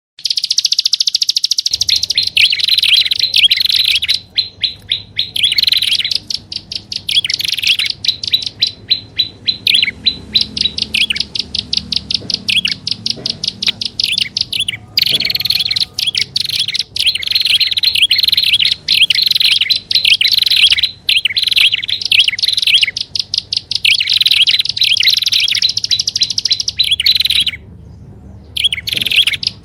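Prinias (prenjak) calling in a bird-lure recording: loud, rapid chattering trains of high notes, many per second, each train lasting a few seconds with brief pauses between them.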